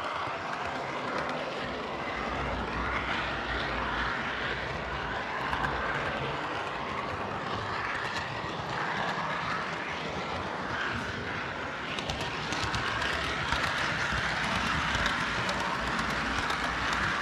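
H0-scale model train running on the layout: a steady motor whir and rolling wheel noise, with fine clicking over the track growing a little louder about two-thirds of the way through.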